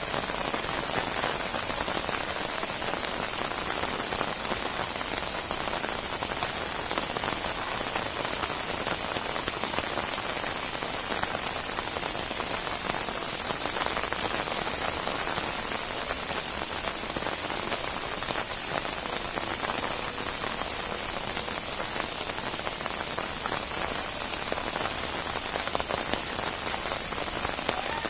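Steady heavy rain falling and pattering on a surface, a dense even hiss of many drops.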